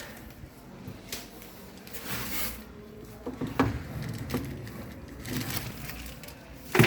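Handling noises: a few light knocks and short rustles, with one sharper knock near the end.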